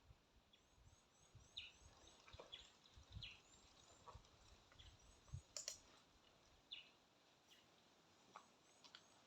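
Faint birds chirping: many short, high chirps scattered throughout over a quiet outdoor background, with a couple of sharp clicks about halfway through.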